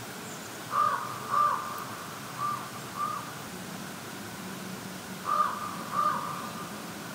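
A bird cawing: three pairs of short calls a few seconds apart, the middle pair quieter, over a steady background hiss.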